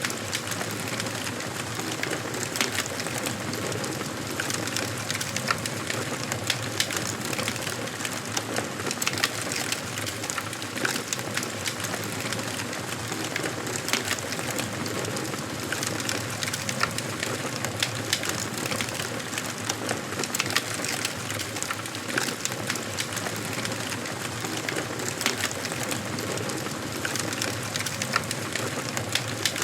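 Wood fire crackling in a fireplace, with frequent irregular pops and snaps over a steady rushing of flames.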